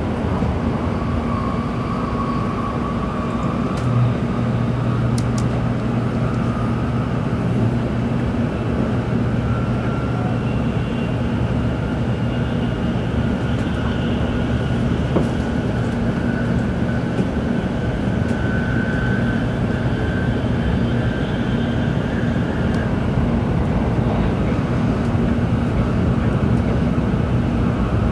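Tokaido Shinkansen train running, heard from inside the passenger car: a steady rumble of wheels on the track with a faint motor whine that slowly rises in pitch. A low hum comes in about four seconds in.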